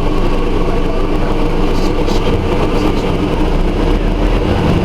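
Scania Omnidekka double-decker bus engine running, a steady drone with a deeper low rumble coming up near the end.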